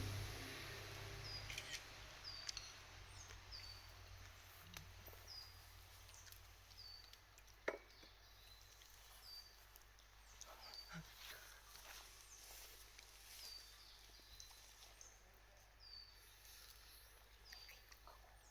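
A bird calling over and over, a short high whistle that falls in pitch, repeated about once a second, over the faint hiss of running water. A few sharp clicks come between, with one louder pop about eight seconds in.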